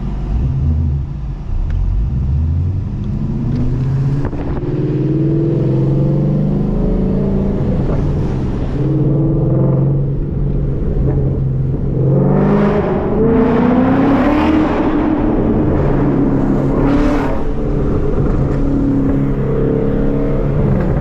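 2014 Mustang GT's 5.0-litre Coyote V8 engine and exhaust driving, the revs rising and falling several times as it accelerates through the gears, pulling hardest about twelve seconds in.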